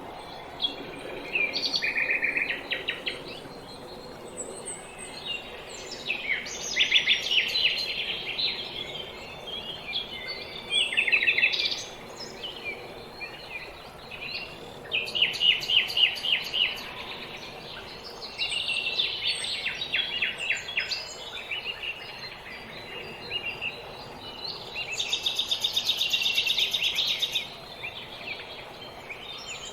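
Spring songbirds singing: rapid trilled phrases of one to three seconds, one after another every few seconds, over a steady background hiss.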